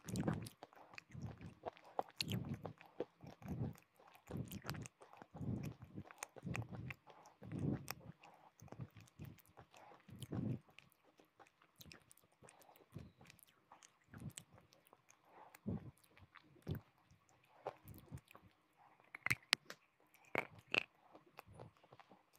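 Close-miked chewing of brittle clay pot pieces: steady chewing strokes about once a second, then a few sharper crunches near the end.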